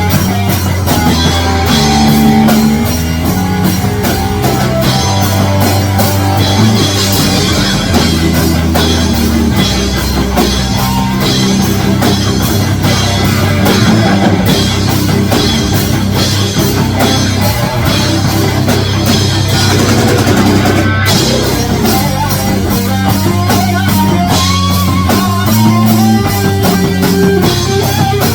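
Rock music played by a full band: distorted electric guitar over bass and a drum kit, with a steady driving beat.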